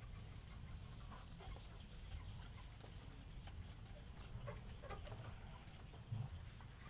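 Stray cats eating hungrily, their chewing heard as faint, irregular little clicks and crunches, with one slightly louder knock about six seconds in.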